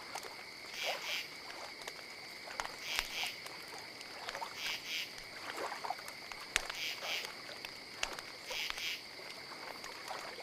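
Insects chirping: a steady high drone with paired louder pulses about every two seconds, with a few faint clicks.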